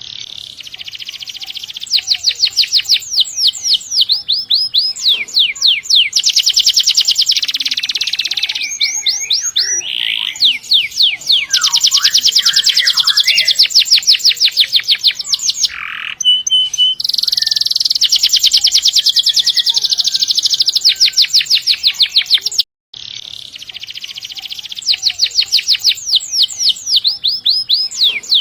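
Domestic canary singing long rolling trills: fast runs of identical high notes, one run after another with short pauses between. The sound drops out for a split second about three-quarters of the way in.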